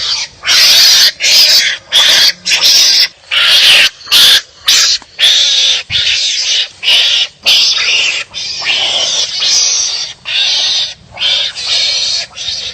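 Wild animals calling harshly back and forth in a fight, loud rasping barks about twice a second with no break.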